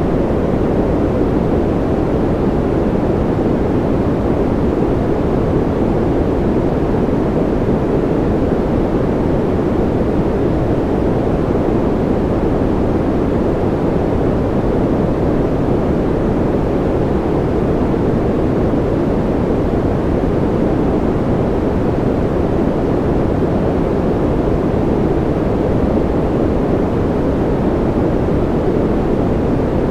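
Continuous white noise for sleep, a steady, even rush that never changes, weighted toward the low end so it sounds deep rather than bright.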